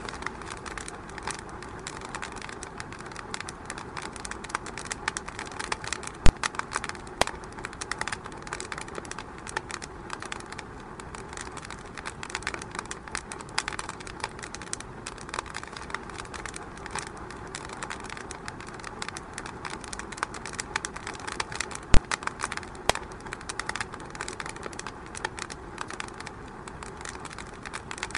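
Fire burning in a fireplace, crackling continuously with many small snaps, and two loud pops about six seconds in and about twenty-two seconds in.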